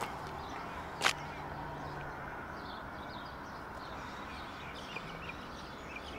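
Steady outdoor background noise with faint bird chirps, and one sharp tap about a second in.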